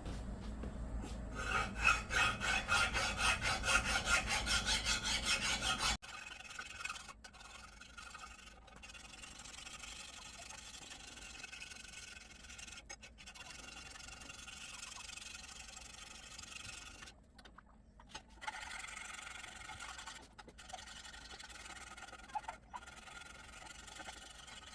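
Hand file rasping across the flange face of a cast-iron exhaust manifold, resurfacing it for new gaskets. Quick back-and-forth strokes come at about four a second, then about six seconds in the sound drops suddenly to a quieter, steadier rasping.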